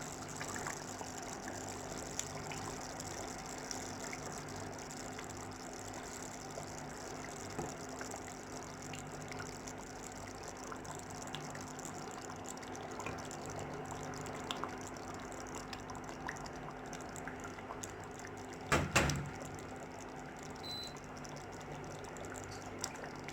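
Fish curry (meen kulambu) boiling in the pan: a steady bubbling with small scattered pops over a faint steady hum. About nineteen seconds in there is one brief, louder knock.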